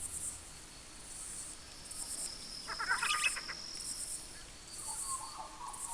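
Natural bush ambience: an insect chirping in high pulses about once a second, with a short burst of bird calls about three seconds in and softer bird twitters near the end.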